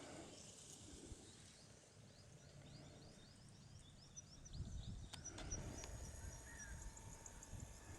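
Faint outdoor ambience with many quick, high-pitched bird chirps in the background; a low rumble comes in about halfway.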